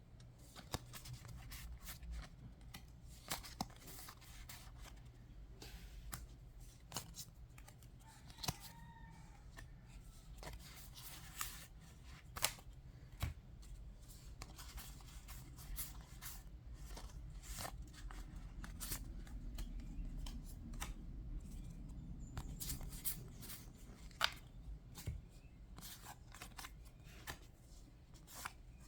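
Yu-Gi-Oh! trading cards being handled and sorted: irregular light clicks and snaps as cards are picked up and set down, over a low steady hum.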